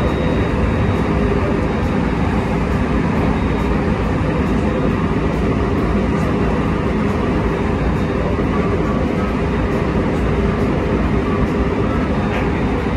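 A JR West train running at speed, heard from inside the car: a steady rumble of wheels on the rails.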